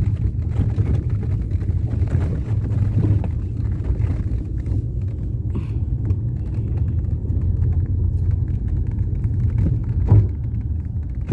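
Steady low rumble of a vehicle in motion, heard from inside it, with a single thump about ten seconds in.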